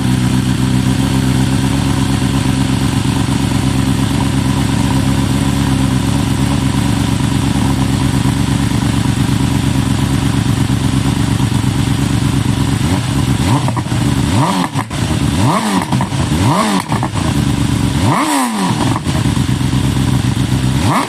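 BMW S1000RR inline-four engine on an open exhaust with no silencers, idling steadily, then revved in several short throttle blips from about two-thirds of the way in, each one rising and falling, with a bigger one near the end.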